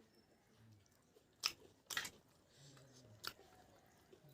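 A person chewing food close to the microphone, with three sharp crunches in the middle.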